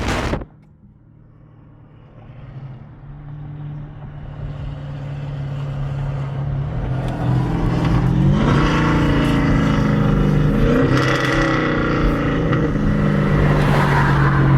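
Wind noise cuts off sharply just after the start. Then car engines run, growing steadily louder over several seconds, with the revs rising briefly a couple of times.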